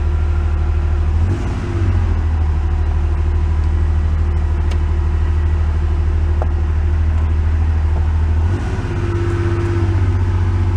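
Porsche 911's flat-six engine running steadily under way, its low note changing twice with a brief dip in level, about a second and a half in and near the end. It is running on fresh gas after struggling.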